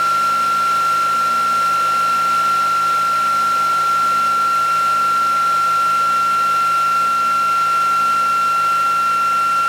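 Small electric motor running at a constant speed, giving a steady high-pitched whine over a hiss.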